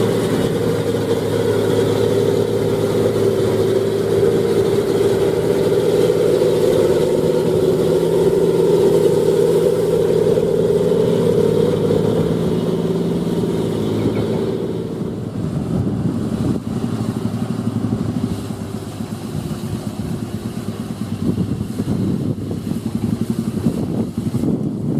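Truck diesel engine running with a steady pitch for about fifteen seconds, then dropping away into a rougher, noisier rumble.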